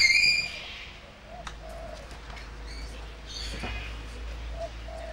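Birds calling: a loud, short, high call right at the start, then a dove cooing softly a few times.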